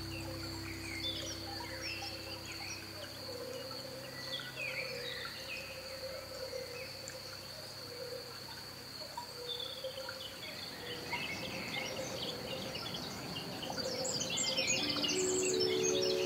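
Small birds chirping and singing outdoors, many short calls, over a steady high-pitched whine. The birdsong grows louder and higher near the end.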